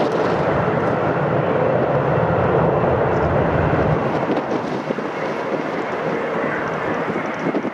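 Jet airliner's engines rumbling as it passes, with the deep rumble dropping away about four seconds in. Wind buffets the microphone throughout.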